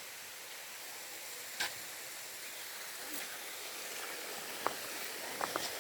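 Steady rushing hiss of a small waterfall, with a few short sharp clicks, one about a second and a half in and a cluster near the end.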